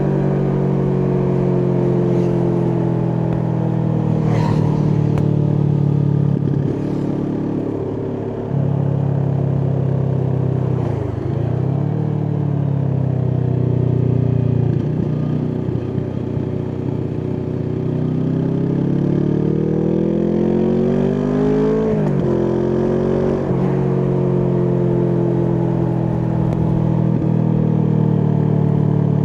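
Kawasaki Vulcan S 649 cc parallel-twin engine through an Arrow aftermarket exhaust, heard from the rider's seat. Its revs repeatedly fall off and climb again, with a long pull upward that ends in a sudden drop about three-quarters of the way through, like a gear change.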